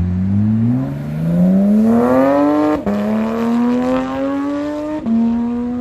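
A car accelerating hard away, its engine climbing in pitch through the gears with quick upshifts about a second in, near three seconds and about five seconds in.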